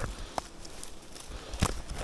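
Footsteps through forest undergrowth, with two sharp cracks a little over a second apart, the second louder.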